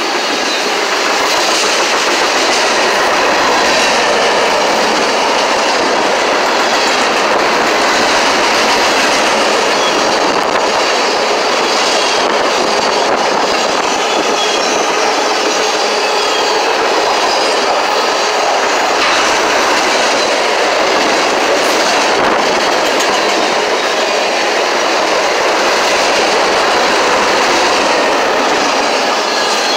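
Train passing close by: a loud, steady rush of wheels on rail with a clickety-clack of wheels over rail joints that goes on without a break.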